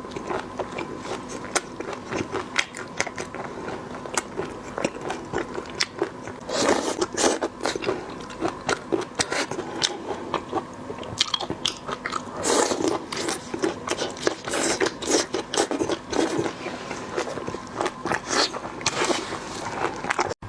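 Close-miked eating sounds: a person biting and chewing food, with frequent sharp crunches and clicks and louder bursts of crunching about a third of the way in, around two-thirds and near the end.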